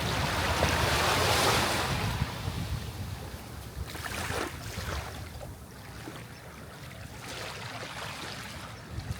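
Sea waves washing onto the shore: one larger wave swells and breaks about a second in, then drains away. Smaller washes follow over a steady low rumble of surf.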